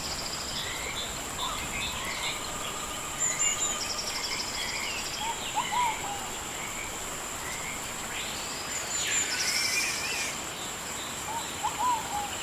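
Rainforest ambience of insects and birds: a steady high-pitched insect drone with a fast pulsed trill repeating every few seconds, scattered short bird chirps, and one long rising-then-falling whistle about eight seconds in.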